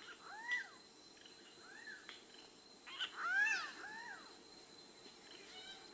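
Male cocks-of-the-rock calling at their lek: about half a dozen short calls, each rising then falling in pitch, the loudest ones overlapping about three seconds in, with a few sharp clicks between them.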